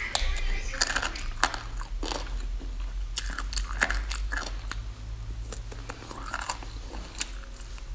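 Close-miked crunching and chewing: a person biting into and chewing crunchy food in irregular crunches, over a low steady hum.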